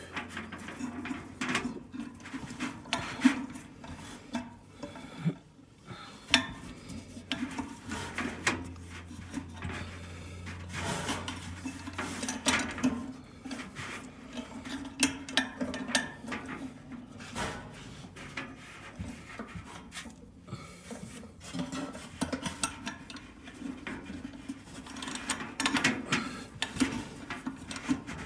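Irregular metallic clinks, knocks and rubbing as a Kenmore dryer's drive belt is worked around the motor's drive pulley while the spring-loaded tensioner pulley is bent back, over a low steady hum.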